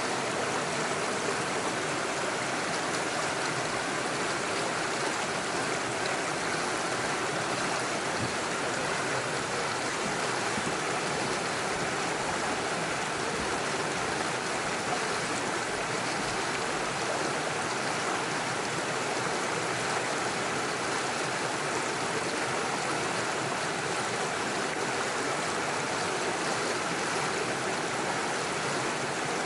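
Small forest stream running steadily over stones and small waterfalls, a continuous even rush of water.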